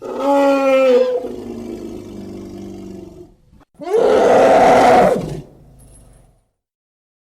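Elephant calls: a pitched call with clear harmonics that lasts about a second and trails off lower, followed about four seconds in by a harsh, noisy roar lasting about a second and a half.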